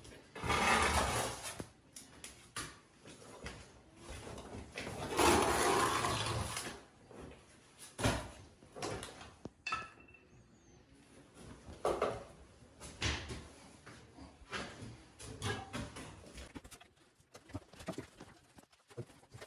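Hand tools working wet cement mix: two longer scraping swishes and many scattered knocks and taps of a trowel or shovel against the mix and the floor.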